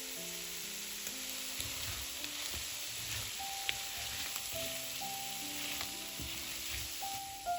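Food sizzling in hot oil in a frying pan, an even hiss throughout, with a single light tick about four seconds in. Soft background music with held notes plays under it.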